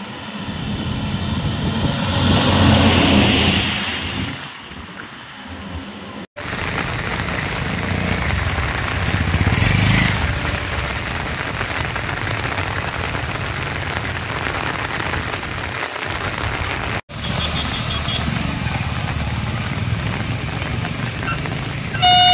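Steady rain on wet road surfaces, with vehicles swishing past on the wet tarmac; the loudest pass swells about three seconds in and another about ten seconds in. A vehicle horn toots briefly at the very end.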